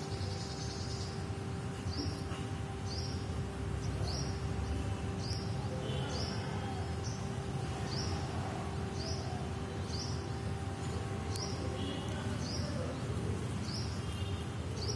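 A bird repeating a short, high, falling chirp about twice a second, starting about two seconds in, with other birds chirping faintly. Under it runs a steady low rumble and hum.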